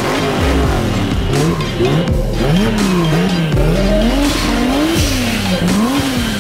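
Car engine revved over and over, its pitch climbing and falling again roughly once a second.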